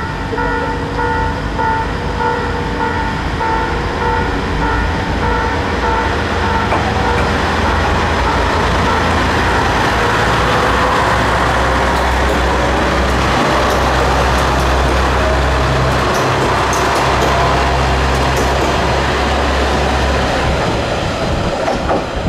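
A Japanese level-crossing warning bell rings rapidly and fades out about six seconds in. An Isumi 200' diesel railcar train then approaches and runs past with a steady, loud engine drone and rolling rumble, easing off near the end.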